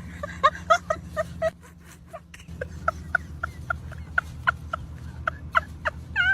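An animal's short chirping calls, repeated quickly at about three a second over a steady low hum, ending in one longer wavering call.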